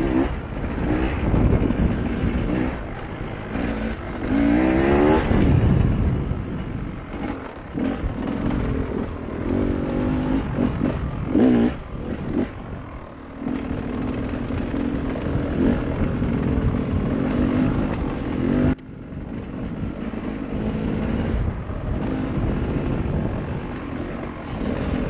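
Dirt bike engine running while being ridden, its pitch rising as it revs up about five seconds in and shifting as the throttle opens and closes. The sound drops suddenly near the three-quarter mark, then goes on steadily.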